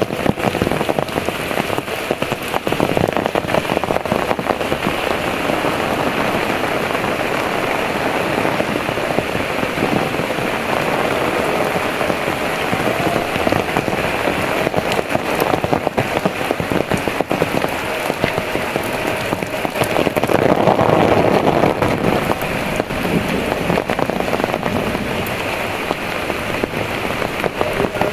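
Heavy rain pouring down: a dense, steady patter of countless drops, swelling slightly about two-thirds of the way through.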